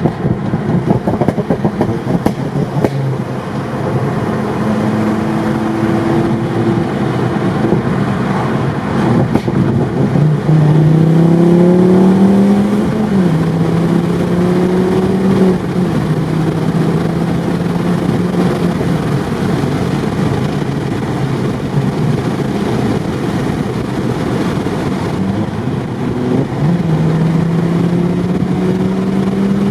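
Ford Focus ST Mk2's turbocharged 2.5-litre five-cylinder engine running through a catless straight-pipe exhaust while the car is driven. The engine note climbs under acceleration about ten seconds in, drops back and holds steady, then rises again near the end.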